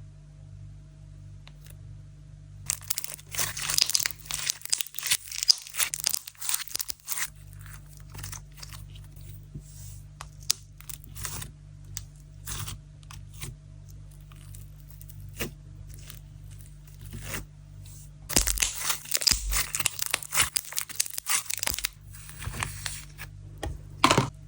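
Sand-texture slime worked by hand, crackling and popping as it is stretched and pressed. There are two long spells of dense crackling, a few seconds in and again after the middle, with scattered single pops between.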